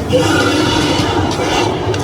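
A multi-car studio tour tram running, with a loud, steady rumble.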